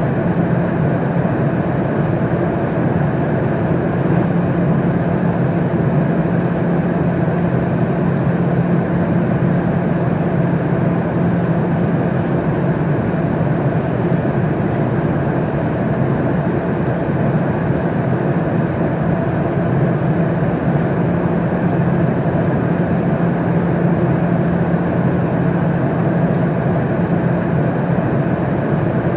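Steady airliner cabin noise in flight: an even rushing noise with a low hum, unchanging throughout.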